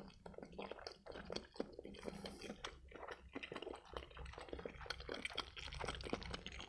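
Close-miked chewing of a bite of sausage: faint, irregular wet mouth clicks.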